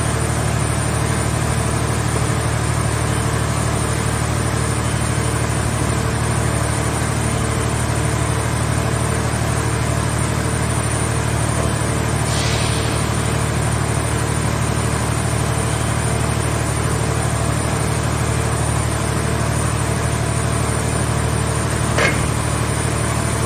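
Scrap car shell baler's power unit running with a steady hum, with a short hiss about halfway through and a sharp click near the end.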